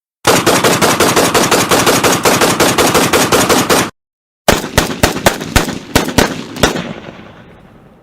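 Automatic gunfire: a steady burst of about three and a half seconds at roughly eight rounds a second that cuts off suddenly. After a short gap comes a second recording of short bursts and single shots, ending in an echo that fades away.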